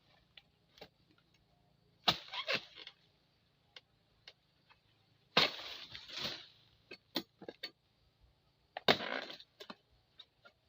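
Harvest tool chopping into tough, hard oil palm fronds: three main sharp cracks about 2, 5½ and 9 seconds in, each with a short crackling rustle after it, plus lighter knocks and ticks between.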